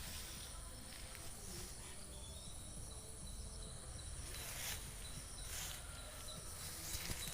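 Rural outdoor ambience: a steady high-pitched insect drone over a low rumble of wind on the microphone, with a few short faint noises about halfway through and near the end.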